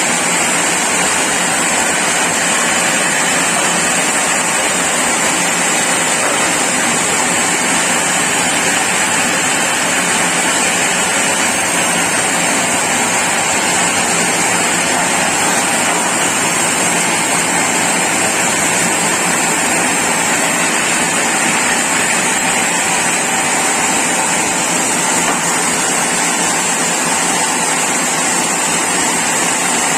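Sawmill saw running steadily while cutting a mahogany log into boards: a loud, even, continuous sawing noise with a high hiss.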